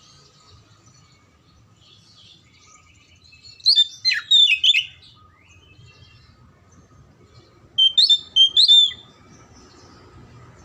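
Oriental magpie-robin (kacer) singing: two short bursts of loud, quick whistled phrases with sharp up-and-down notes, about four seconds in and again near the end, with faint chirping between them.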